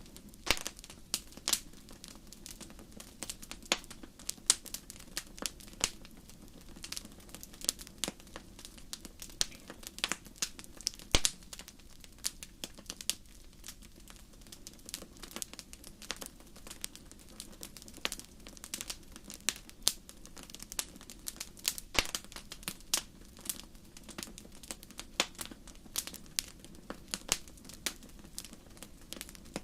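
Campfire crackling: irregular sharp pops and snaps of burning wood, several a second, over a soft steady hiss of flames.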